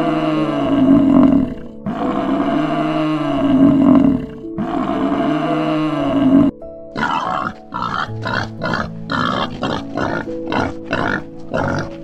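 Buffalo lowing in three long, drawn-out calls, followed about six and a half seconds in by a wild boar grunting in quick short bursts, several a second. Background music plays throughout.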